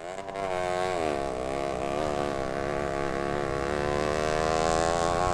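A motor or engine running steadily, its pitch wavering slightly up and down; the sound starts abruptly.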